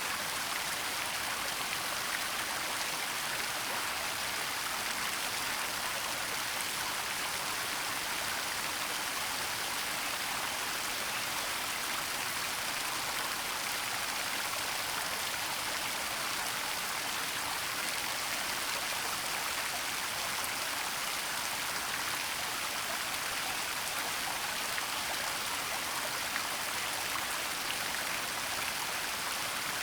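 Falling water from a forest waterfall, a steady hiss and rush with no change or breaks.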